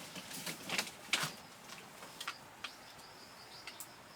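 A few light clicks of chopsticks and bowls in the first second or so, then insects chirping steadily and high in the background.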